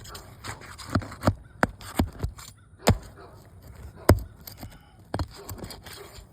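Irregular sharp clicks and knocks with scraping as brittle asphalt roof shingles are worked loose for removal, about eight snaps in all, the loudest about four seconds in.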